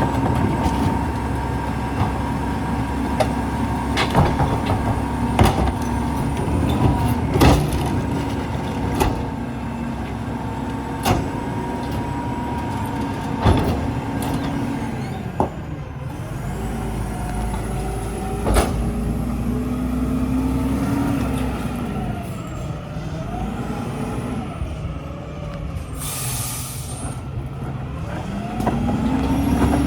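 Mack LEU rear loader garbage truck running. For about the first fifteen seconds the engine holds a steady pitch, with sharp knocks about every second and a half; after that its pitch rises and falls several times. Near the end comes a short air-brake hiss.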